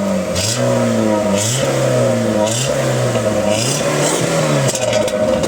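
Mitsubishi 4G64S4M 2.4-litre inline-four being revved repeatedly, its pitch rising and falling about once a second, on a freshly rebuilt, run-in engine.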